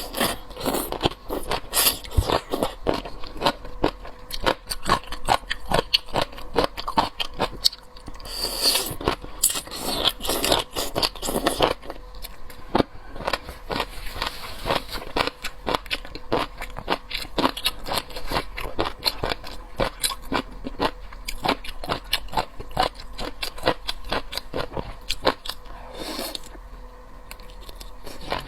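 Seafood being eaten close to the microphone: a dense run of sharp chewing clicks and wet mouth sounds, with a few louder, noisier stretches about two seconds in, between about eight and twelve seconds, and near the end.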